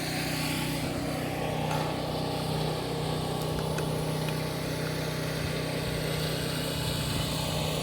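A motor vehicle's engine running steadily: a constant low hum with a noise wash on top, unchanging in level and pitch.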